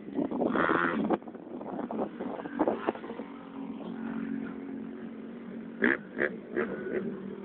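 Motocross bike engine running: a loud burst in the first second, then a steady low engine note with a few short sharp sounds near the end.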